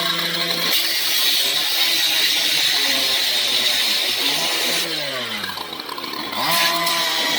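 Power saw running at high speed, cutting through the steel frame of a mobile home trailer, with a steady high hiss. Its revs drop about five seconds in, then climb again.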